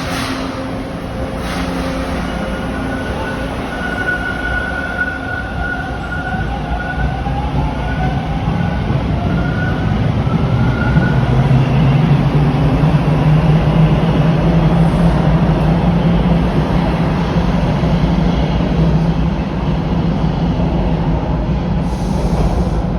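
TTC Bombardier T1 subway train running, a steady rumble that grows louder a little under halfway through. Faint high wheel squeals come in the first half, and a strong low hum holds from about ten seconds on.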